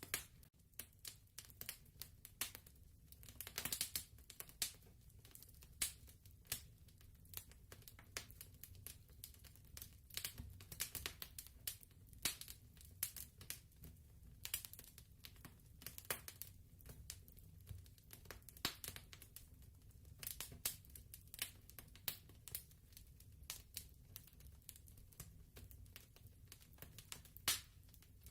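Fireplace fire crackling: faint, irregular sharp pops and snaps, several a second, over a low steady rumble.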